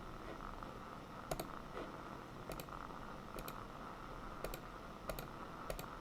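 Separate sharp clicks from a computer keyboard, about six at uneven intervals with each one a quick double tick, over a steady background hiss.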